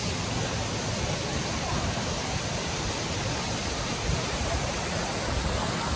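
Waterfall: steady rushing of falling water, an even hiss with an uneven low rumble underneath.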